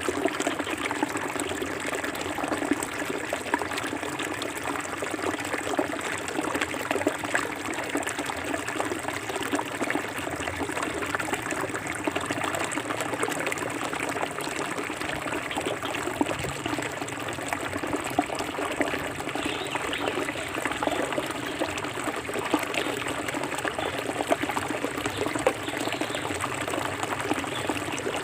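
Forest river water flowing and trickling over rocks, a steady babble with many small splashes.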